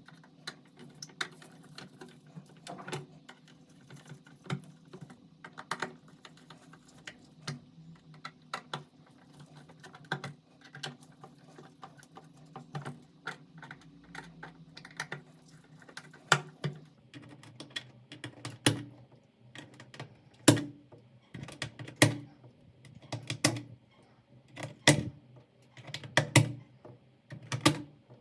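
Computer keyboard keys clacking: a quick run of light clicks, then from about two-thirds in, louder single clacks every second or so, each with a low thud.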